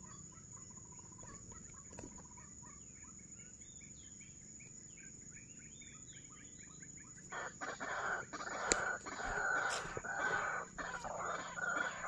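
White-breasted waterhens calling: first a faint run of quick repeated notes, then, about seven seconds in, loud dense calling. A steady high-pitched whine runs underneath.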